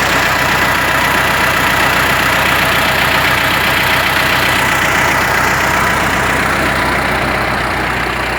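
T-40 tractor's air-cooled diesel engine idling steadily, running normally after being started following the winter layup.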